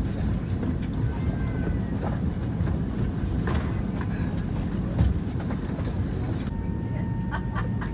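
Steady low rumble of an airliner cabin's air conditioning while parked at the gate, with faint passenger voices. There is a single thump about five seconds in, and a steady hum sets in near the end.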